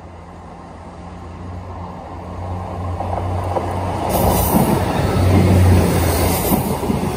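Class 158 diesel multiple unit approaching and passing close by: a steady low diesel engine drone that grows louder, joined about four seconds in by the rumble and hiss of wheels on the rails as the carriages go past.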